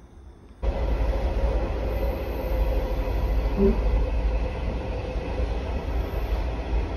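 Steady rumble and rattle of a passenger train running along the rails, heard from inside the carriage, with a faint steady whine; it cuts in suddenly about half a second in after a quiet stretch.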